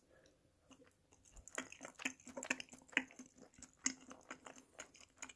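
A person chewing and biting food close to the microphone: a quick run of short, sharp mouth clicks and smacks that starts about a second and a half in.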